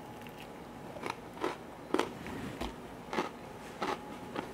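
A person chewing a mouthful of crusty baguette with shrimp dip, the bread crunching in short, sharp bites about every half second.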